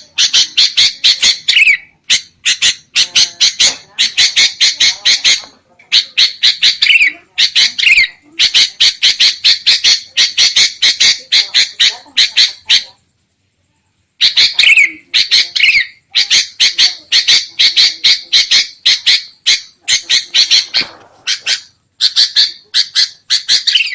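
Sooty-headed bulbuls giving agitated chattering calls: fast runs of repeated notes in bouts of a second or two, with a brief full pause about halfway through.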